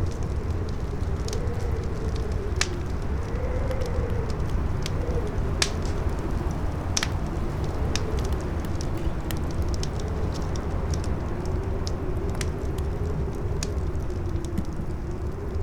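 Campfire crackling, with sharp pops scattered throughout, over a howling wind whose pitch slowly wavers up and down, and a steady low wind noise beneath.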